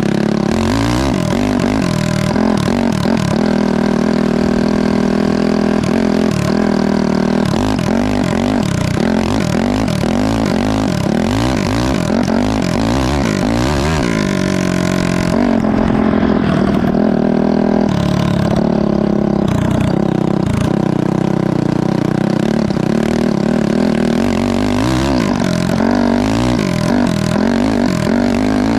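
Honda CRF450 single-cylinder four-stroke engine in a toy Lamborghini go-kart, running and revving, its pitch rising and falling again and again.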